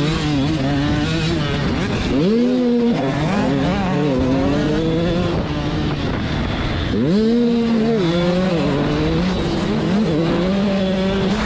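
Motocross dirt bike engine revving hard as it rides the track, its pitch climbing sharply twice, about five seconds apart, and stepping back down in between as the bike accelerates and eases off.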